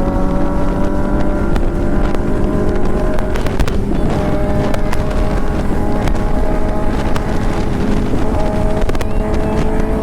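Inline-four superbike engine running hard at high revs on the move, its pitch creeping up, with short breaks about four and eight seconds in, and wind rushing over the microphone.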